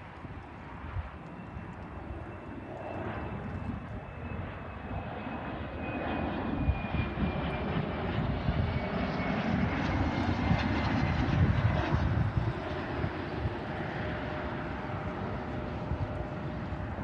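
Jet airliner's engines going by, growing louder to a peak about ten to twelve seconds in and then easing, with a high whine that slowly falls in pitch as it passes.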